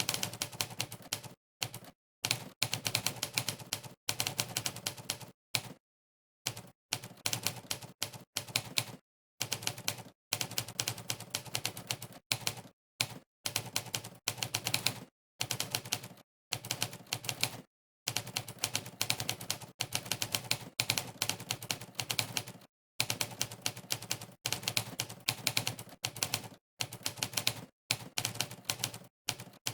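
Monkeytype's typewriter keystroke sound effect playing once for each key pressed during fast typing. The clacks come in quick, dense runs of a second or two, separated by brief dead-silent pauses.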